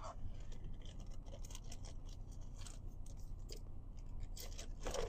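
Scattered light clicks and taps of small kitchen items being handled and set down, over the steady low hum of the van's idling engine.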